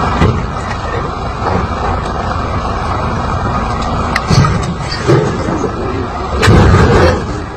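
Motor vehicle noise: a steady, loud rumble, with a few short knocks in the second half and a louder swell near the end.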